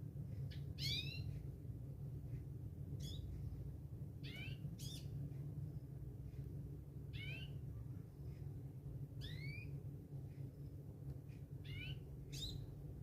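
A sogon songbird, as Indonesian bird keepers call it, giving short upward-sweeping whistled calls, about eight of them at irregular intervals, over a steady low hum.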